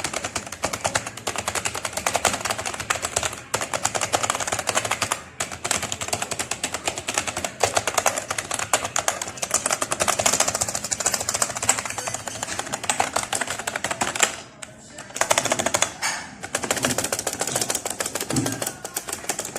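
Fast, continuous typing on a Fantech Soldier K612 membrane gaming keyboard, a dense run of key clicks with a few short pauses, the longest about fourteen seconds in.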